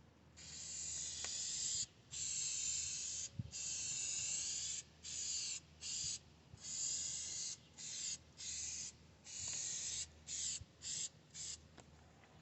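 Aerosol spray can hissing in about a dozen bursts as a coating is sprayed onto a restored headlight lens. The first bursts last a second or more, and the last ones are shorter and quicker.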